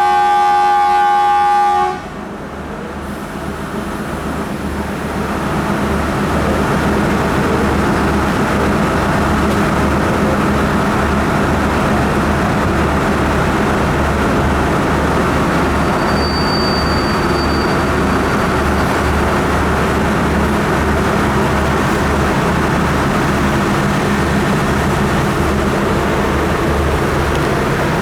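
Diesel locomotive horn sounding, cutting off about two seconds in, then the steady rumble of the departing train, growing louder over the next few seconds and holding as the locomotive and cars pull out.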